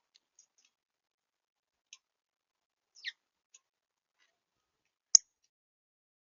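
Small bird at a feeder: one short chirp falling in pitch about three seconds in, with faint ticks, and a single sharp tap on the feeder about five seconds in, the loudest sound.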